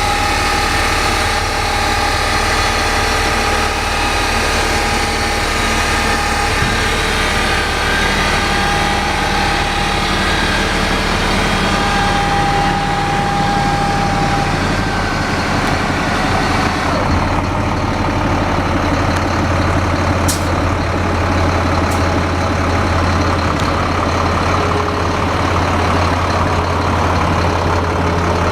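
2005 Freightliner M2 grain truck's diesel engine idling steadily. About two-thirds of the way in, the hiss fades and a deeper low hum takes over, and a single sharp click follows a few seconds later.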